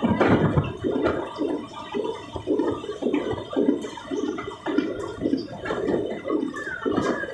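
Rushing noise of an express train in motion, heard from on board, pulsing about twice a second.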